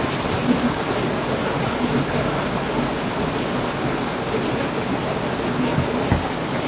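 Heavy rain falling steadily, a dense even hiss, with a few brief low thuds.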